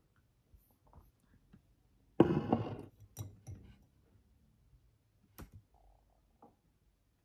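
A sudden knock or clatter about two seconds in that dies away within a second, followed by a couple of sharp clicks and faint ticks.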